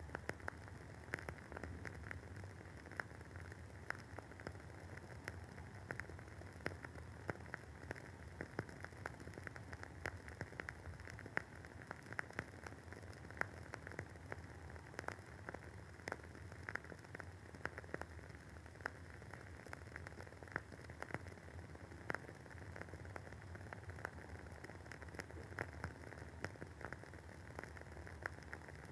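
WoodWick candle's wooden wick burning with a faint, irregular crackle: many small pops a second, some louder than others, over a steady low hum.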